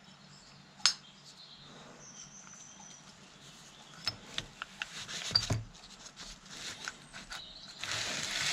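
Scattered clicks and light knocks of small metal parts and hand tools being handled on the tractor's hydraulic pump: one sharp click about a second in, then a cluster of taps about halfway through, and a rustle near the end.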